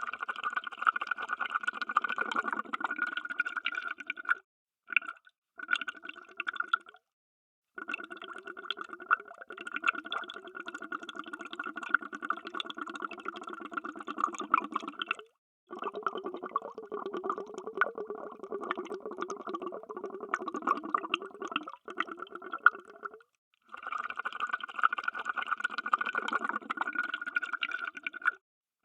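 Underwater bubbles: a dense stream of rapid bubbling that runs in stretches of a few seconds and stops short several times, with brief silences between.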